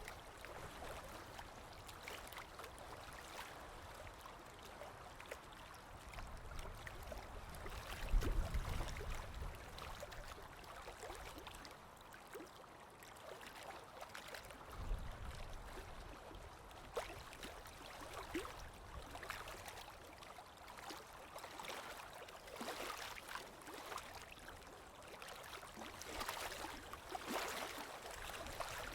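Sea waves washing in, with many small splashes and trickling water. Heavier surges come about eight seconds in, the loudest, and again about fifteen seconds in.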